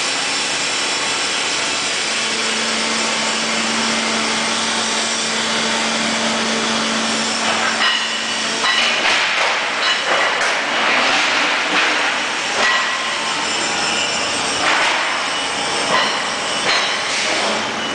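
End-grinding machine running with a steady whirr and hum. From about halfway, louder rasping surges come and go roughly every second.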